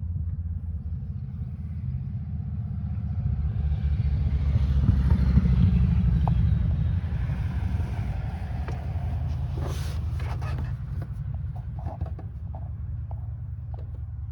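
Yanmar AF26 compact tractor's diesel engine running with a steady low rumble that grows louder about four to six seconds in and then eases back. A sharp knock comes near ten seconds in, followed by a few small clicks.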